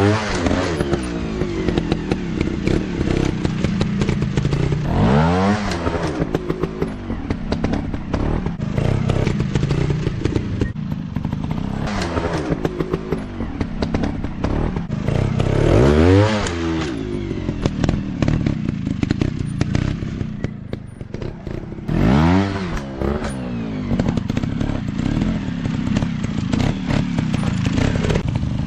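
Dirt bike engine running, revved in sharp bursts about every five or six seconds, its pitch sweeping up and falling back, with many short knocks and clatter throughout.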